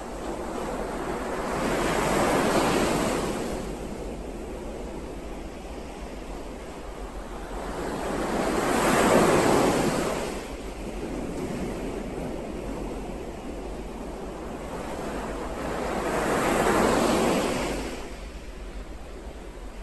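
Ocean waves breaking and washing up the shore, three waves about seven seconds apart, each swelling for a few seconds and then fading. A steady low rumble runs underneath.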